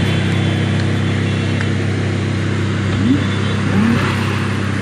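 A motor vehicle's engine running steadily at an even pitch while cruising, with road and wind noise.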